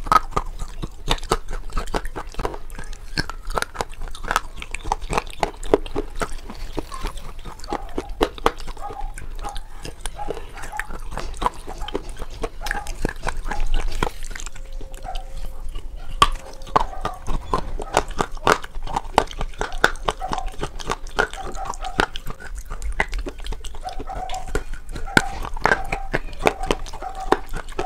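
Close-miked chewing and crunching of KitKat chocolate-covered wafer bars: a dense, continuous run of crisp crackles from biting and chewing.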